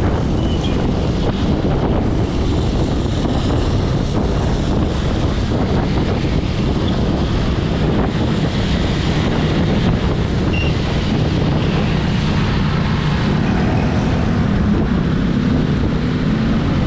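Wind rushing over the GoPro Hero 8's built-in microphone while riding a motorcycle, with the motorcycle engine running underneath. Its steady note comes through more clearly over the last few seconds.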